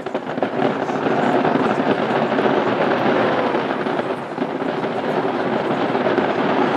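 Fireworks bursting in a dense, continuous barrage: many bangs and crackles running together, loud throughout.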